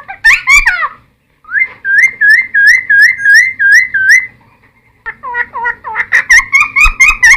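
Cucak timor (helmeted friarbird) singing loud whistled phrases. A quick tumbling phrase comes first, then after a short pause a run of about seven repeated rising whistles, and after another pause a fast stream of notes.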